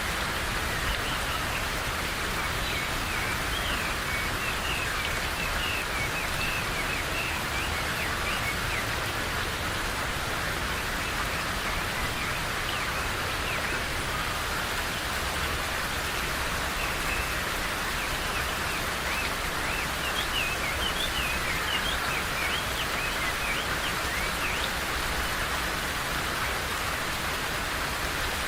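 Steady rain falling in a forest, with small birds chirping over it in two spells, one through the first third and another a little past the middle.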